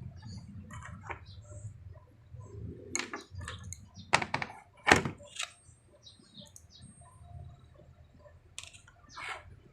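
Plastic parts of an electric kettle being handled and fitted back together: scattered clicks and knocks, the loudest two sharp knocks about four and five seconds in.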